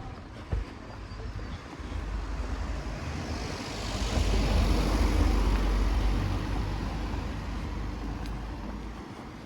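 A motor vehicle passing by with a low engine rumble, building up over a few seconds, loudest about halfway through, then fading away.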